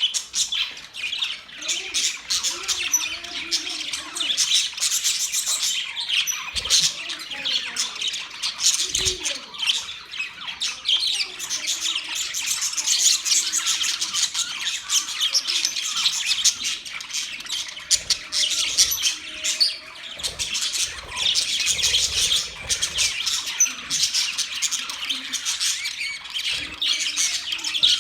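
A flock of budgerigars chirping and chattering without pause, many quick overlapping calls and squawks.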